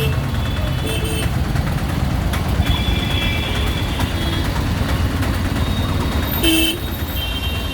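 Street traffic noise: a steady low rumble of vehicles, with short horn beeps sounding about three seconds in and again twice near the end.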